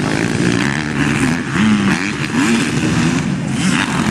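Motocross bike engines revving, the engine note rising and falling over and over as the throttle is worked.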